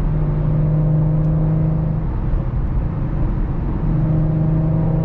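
2017 Audi SQ5's exhaust, with AWE non-resonated downpipes and Touring catback, heard from inside the cabin while cruising on the highway: a steady low drone over road noise. The drone fades about two seconds in and comes back near the end.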